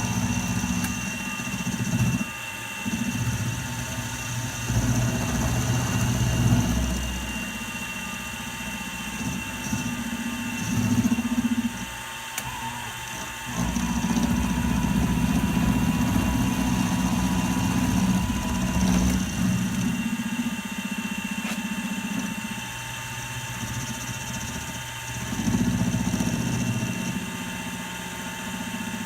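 Milling machine running with a steady whine while the cutter works metal, a heavier low rumble of cutting coming and going in several passes.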